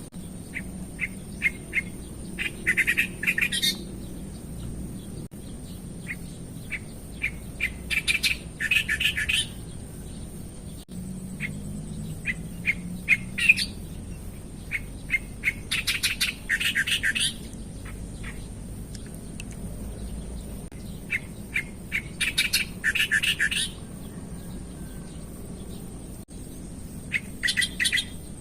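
A songbird singing the same phrase over and over, about every six seconds: a few short, spaced notes that speed up into a fast, chattering burst of notes.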